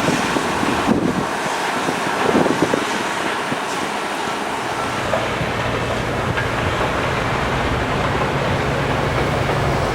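Steady traffic noise outdoors, with a low engine drone that comes in about halfway through.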